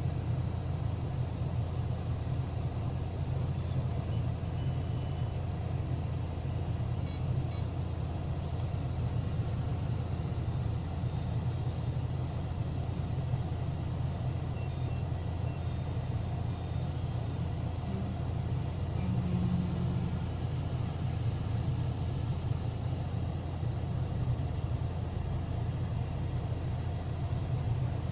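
Ashok Leyland 3118 twin-steer multi-axle truck's diesel engine running steadily, a constant deep rumble that holds the same pitch without revving up or down.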